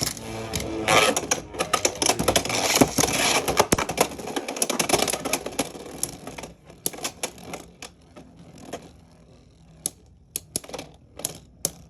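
Beyblade X spinning tops clashing in a plastic stadium: a dense, rapid clatter of hits for the first six seconds or so, then thinning to scattered single sharp knocks as the tops slow down.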